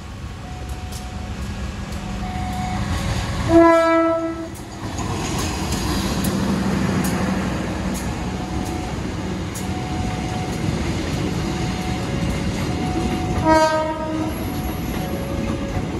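A diesel-locomotive-hauled commuter train passes close by with a steady rumble of engine and wheels. The locomotive's horn sounds for about a second a few seconds in, and again briefly near the end.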